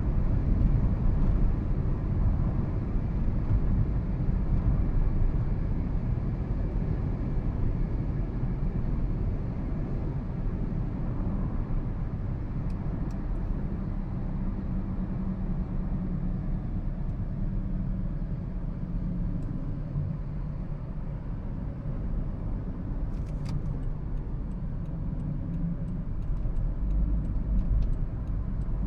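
A 2013 Toyota Prius being driven: a steady low rumble of road and running noise, with a few light clicks or knocks in the last few seconds.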